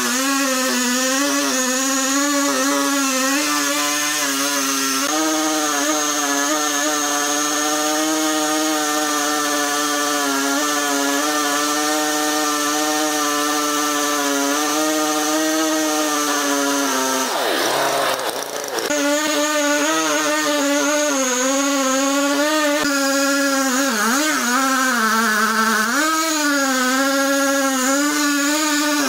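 A wood-cutting saw machine running with a steady pitched whine. Its pitch dips sharply and recovers about 18 seconds in, then wavers again twice near the end.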